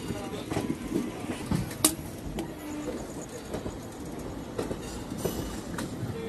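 Passenger express train running along the track, heard from the coach door: steady wheel rumble with irregular clacks over rail joints and points, one sharp clack about two seconds in.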